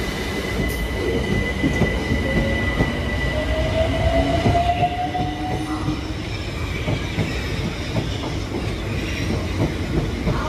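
Southeastern electric multiple-unit train moving slowly past the platform: steady rumble with a high wheel squeal on the curved track, a whine rising in pitch a few seconds in, and light clicking over rail joints.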